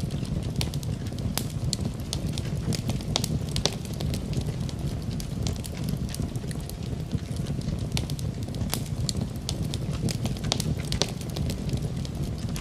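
Fire in a fireplace crackling, with frequent sharp pops and snaps scattered irregularly over a steady low rumble of the flames.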